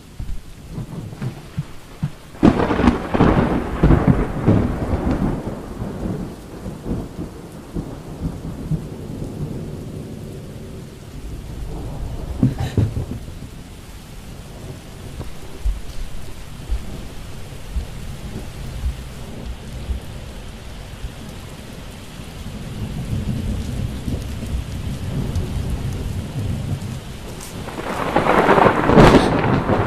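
Thunderstorm: steady rain with rolls of thunder. The thunder is loudest about two to five seconds in and again near the end, with a shorter crack about twelve seconds in.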